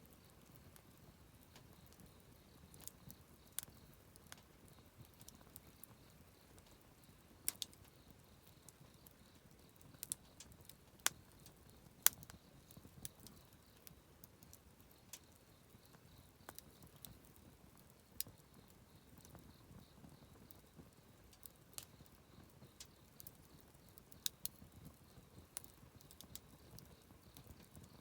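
Wood fire crackling: irregular sharp pops and snaps, a few of them louder, over a soft low rush from the flames.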